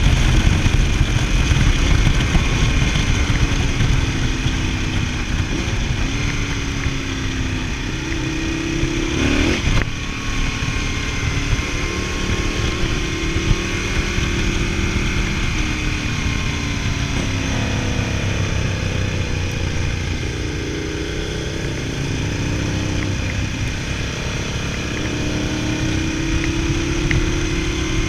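Motorcycle ride heard on board a Ducati Multistrada 1000DS: its air-cooled L-twin engine pulls through the gears, the pitch climbing and then dropping back at each of several shifts, under heavy wind rush.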